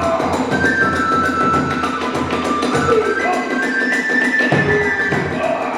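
Hiroshima-style kagura hayashi music: a bamboo flute plays a melody in held, stepping notes over steady drumming and the clash of small hand cymbals.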